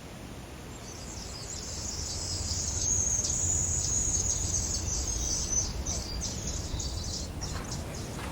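Insects chirring in the rainforest: a high, shrill, steady buzz that swells in about a second in, is loudest in the middle, and breaks into short pulses near the end.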